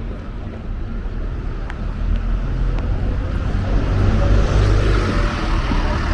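A road vehicle passing close by: a low engine rumble with tyre noise, growing louder from about two seconds in and loudest about four seconds in.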